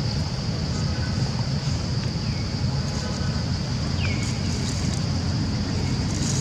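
Wind buffeting the microphone, a steady low rumble, over a constant high-pitched insect-like drone. Two faint, short, high calls that fall in pitch come about two and four seconds in.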